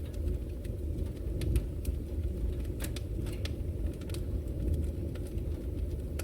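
Wood logs burning in a fireplace: a steady low rumble of the flames with irregular sharp crackles and pops from the burning wood.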